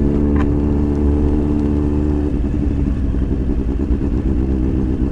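Motorcycle engine running at a steady, low road speed under a constant low rumble. About two seconds in, the even engine note drops away and a rougher, uneven rumble is left.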